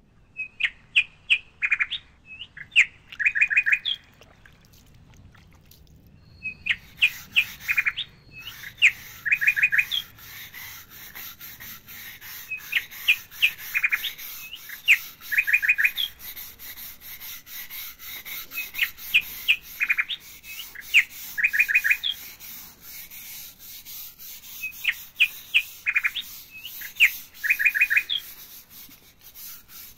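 A bird singing loud, repeated short chirping phrases. From about six seconds in, a stiff-bristled brush scrubs a wet tiled floor with a steady scratchy sound of quick strokes.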